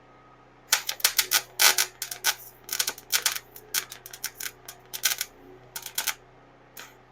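Electric welding arc crackling in a string of short, irregular bursts as thin stainless steel exhaust tubing is welded. It starts about a second in and stops near the end, with one last short burst.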